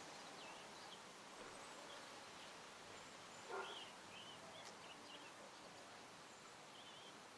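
Faint, scattered short chirps of small birds, with one brief louder sound about three and a half seconds in.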